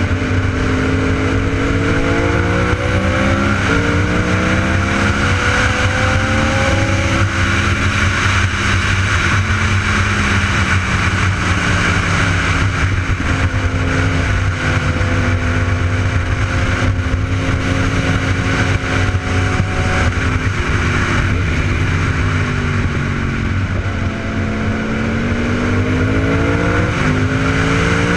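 Sport motorcycle engine accelerating through the gears, its pitch climbing and dropping back at each shift several times, with a steadier cruising stretch in the middle, over a constant rushing noise.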